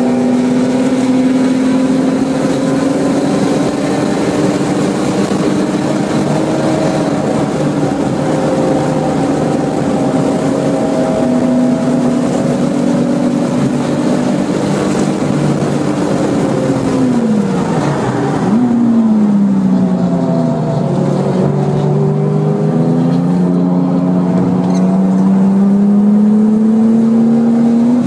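Porsche 996 Turbo's twin-turbo flat-six under hard acceleration at high revs, holding a steady pitch in fourth gear. About seventeen seconds in the revs fall sharply as the car brakes for a corner, with a quick blip on the downshift, then climb steadily again as it accelerates in third.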